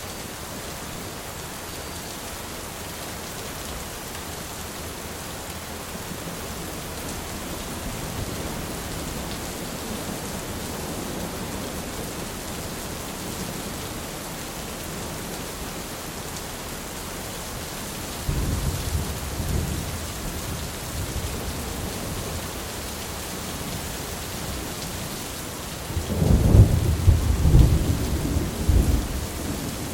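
Steady rain falling through a thunderstorm, with thunder rumbling twice in the second half; the second rumble, near the end, is the louder and more crackling.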